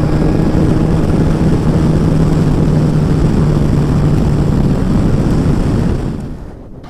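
Kawasaki ZZR1400's inline-four engine pulling hard on a straight under full acceleration, a steady engine note under loud wind rush. The sound dies away about six seconds in.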